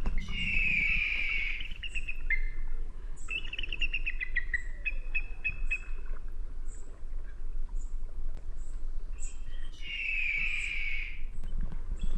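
Eagle calling: a long, harsh, falling scream at the start and again near the end, with a run of quick chattering notes between.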